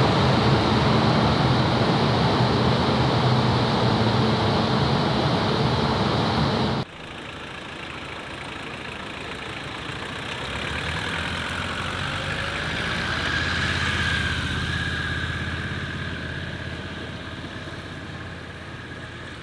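A car engine running loudly and steadily, cut off abruptly about seven seconds in; then a quieter car engine that swells and fades as a car drives past, with a faint whine at its loudest.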